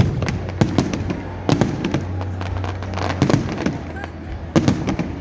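Fireworks going off: a rapid series of sharp bangs and crackles in bunches, about every second or so.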